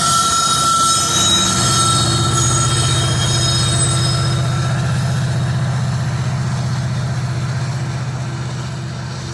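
Freight train tank cars rolling past, their wheels squealing in several high steady tones that fade out about halfway through, over a steady low rumble that slowly eases off.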